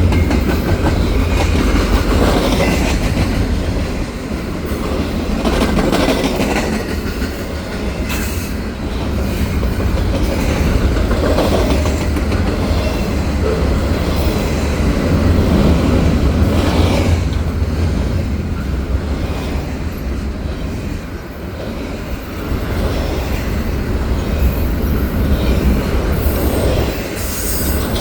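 Double-stack container freight train rolling past close by: steel wheels clattering on the rails over a heavy low rumble that swells and eases.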